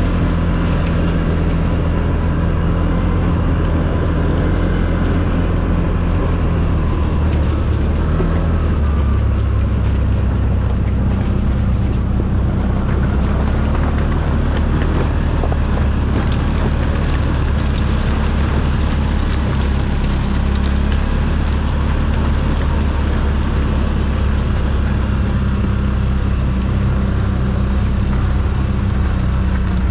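ATV engine running steadily while riding, a low drone whose pitch shifts slightly about nine seconds in.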